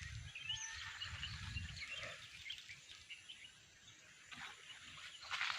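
Outdoor birds chirping and twittering faintly, many short calls scattered throughout. A low rumble is also heard during the first two seconds or so.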